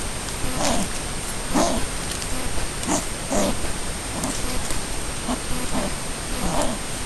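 A pair of North Island brown kiwi giving a series of short grunts, roughly one a second, over a steady hiss of rain on the camera, with a thin constant high tone.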